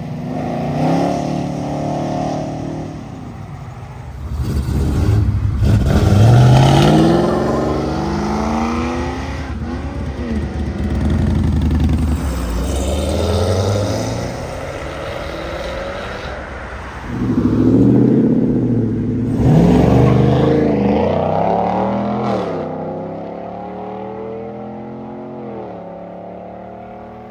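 Classic and muscle car engines accelerating hard, with revs climbing through several gear changes. There are two loudest pulls, one about six seconds in and another around eighteen to twenty seconds, and the sound dies away near the end.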